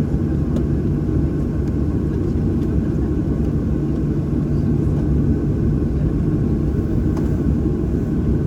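Cabin noise inside a Boeing 737-800, with its CFM56-7B engines running: a steady, dense low rumble with a faint constant hum and no change in power.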